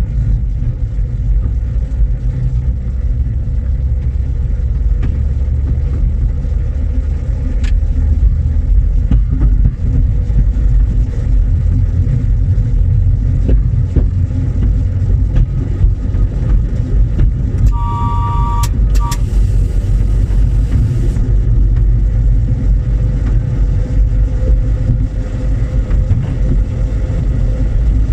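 Small park-railway train running along the track, heard from the driver's cab: a steady low rumble with an occasional click from the rails. About two-thirds of the way through, a two-tone train signal sounds for about a second, followed by a short hiss.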